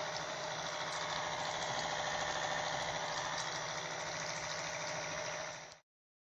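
Small electric motor of a homemade mini blender running steadily at full speed, then stopping abruptly.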